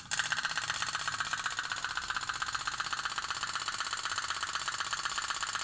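Otok-otok (pop-pop) toy boat's flame-heated boiler popping in a rapid, even rhythm, a steady putter like a tiny engine.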